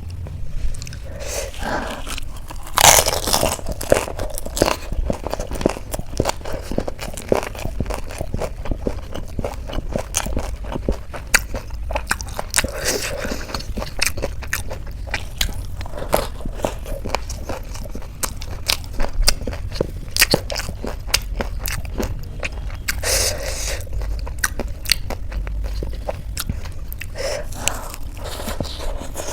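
Close-miked eating of crunchy street-food chaat: bites, crunching and chewing with many small mouth clicks. There are louder crunches about three seconds in and again about three-quarters of the way through.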